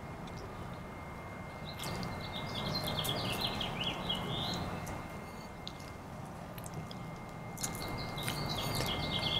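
A songbird singing two similar phrases about six seconds apart, each a quick run of chirping notes lasting two to three seconds, over a faint steady background hum.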